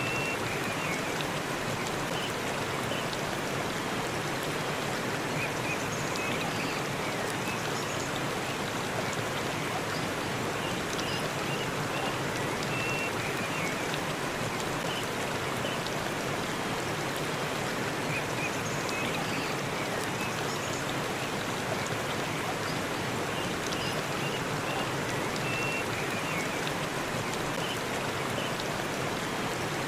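Waterfall in a forest, its water falling and splashing in a steady, even rush, with faint short high chirps now and then.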